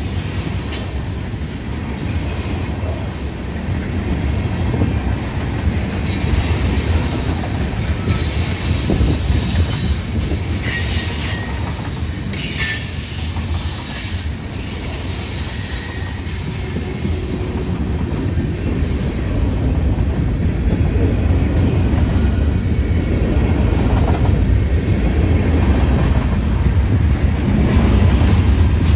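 Union Pacific freight train rolling past with a steady rumble, its wheels squealing several times in the first half.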